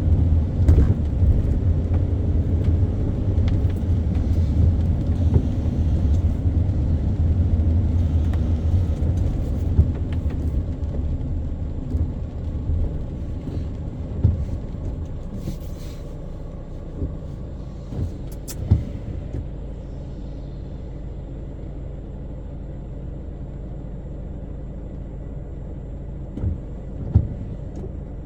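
A car driving, with a steady low rumble of engine and road noise that eases off about halfway through as it slows, and a few light knocks.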